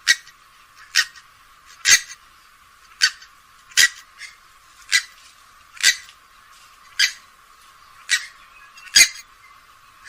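Grey-headed swamphen giving short, sharp calls, repeated about once a second.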